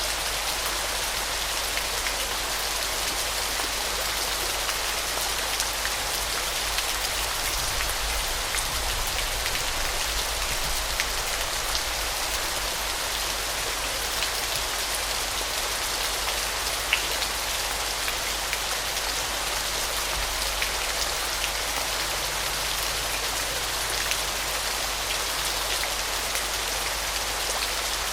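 Waterfall: a steady, even hiss of falling and splashing water, with small scattered ticks of drops.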